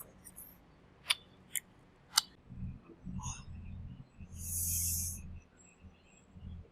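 Someone eating crispy fried chicken thigh: three sharp crunches in the first couple of seconds, then muffled chewing and a brief hissing rustle about two-thirds of the way through.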